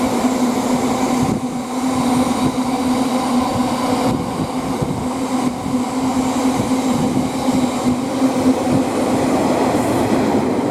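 Class 66 diesel-electric freight locomotive, with its EMD two-stroke V12 engine under power, giving a steady loud drone as it hauls a long train of intermodal container wagons and builds up speed.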